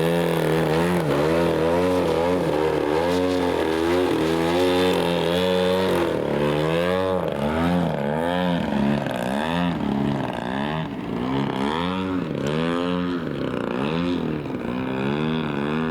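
Engine of a flying radio-controlled model aircraft: a steady, pitched engine note whose tone wavers and swells as the model passes back and forth.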